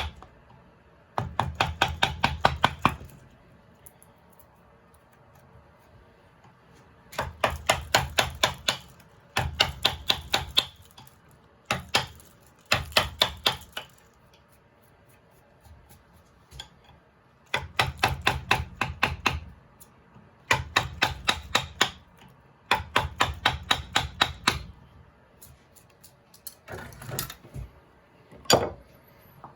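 Wood being carved with a chisel tapped by a mallet: quick bursts of sharp knocks, about seven a second, each burst lasting a second or two, seven bursts with short pauses between.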